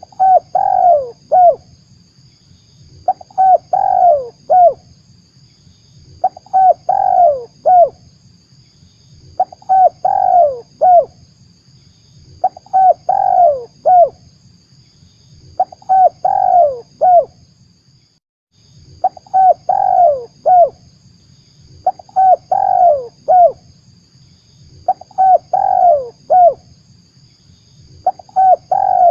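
Spotted dove cooing: a short phrase of several coos repeated about every three seconds, ten times in a row, over a faint steady hiss.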